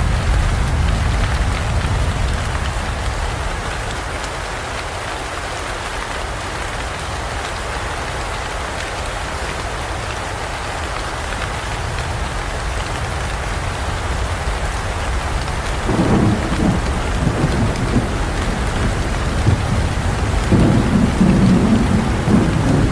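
Heavy rain pouring steadily in a forest, with rolling thunder. A low rumble at the start dies down. The thunder rumbles and crackles again about two-thirds of the way through, and louder near the end.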